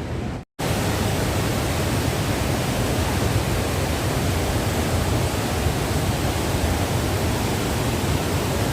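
A brief dropout about half a second in, then a steady, even rushing noise with a strong low rumble.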